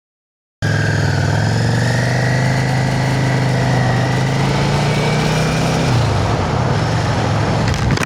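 Yamaha XVS650 V-twin motorcycle engine running steadily; it cuts in abruptly about half a second in, and its pitch dips slightly about six seconds in.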